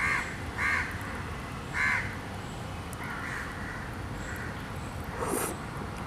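Harsh bird calls: three short ones in the first two seconds, then a softer call about three seconds in, and a short noisy sound near the end.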